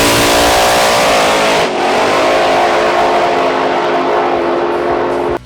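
Drag car engine at full throttle under acceleration, loud, with a brief drop in pitch about two seconds in, as at a gear change, then pitch climbing again; it cuts off abruptly near the end.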